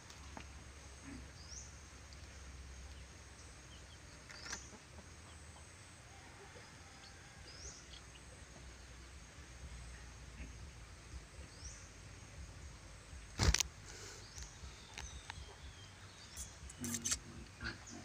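Faint, short, high rising bird chirps every few seconds over a low rumble. One sharp knock comes about two-thirds of the way in, and a few handling clicks come near the end.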